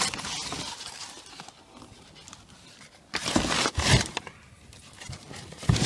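Rustling and handling noise as a new catalytic converter and its thin paper wrapping are handled. A loud stretch comes about three seconds in, and a shorter burst near the end.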